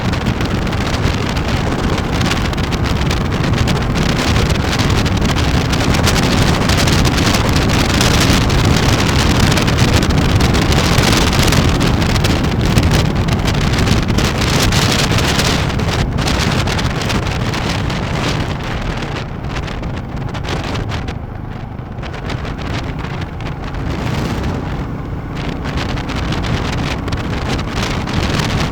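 Wind rushing over the microphone on a moving Royal Enfield Classic 350, with its single-cylinder engine running beneath. The rush eases off about two-thirds of the way through, then builds again.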